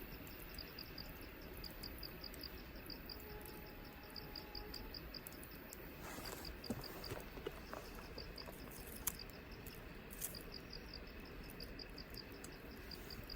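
Insect, likely a cricket, chirping in short high pulses about four times a second, pausing briefly partway through. A few sharp clicks sound over it.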